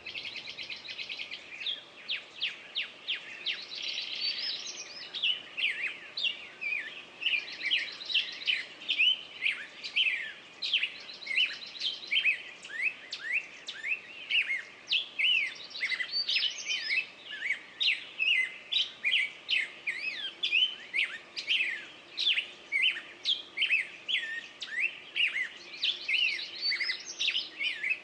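Several songbirds singing at once: a dense, continuous run of quick chirps and short whistled sweeps, with a buzzy trill that comes back every few seconds.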